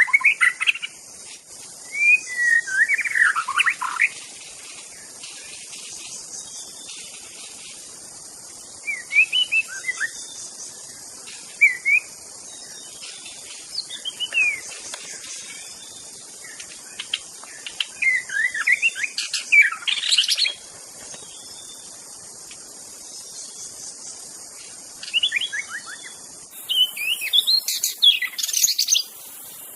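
A white-rumped shama singing in short bursts of rich, fast-changing whistled phrases, about eight bursts with pauses between them. The song sits over a steady high hiss.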